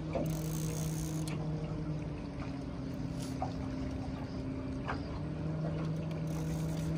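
Boat motor running steadily at trolling speed, a constant low hum whose pitch dips slightly for a few seconds in the middle, with a few faint ticks over it.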